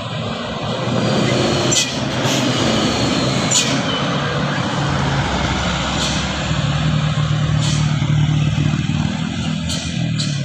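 Heavy truck's diesel engine running loud and steady, with a few short sharp clicks scattered through.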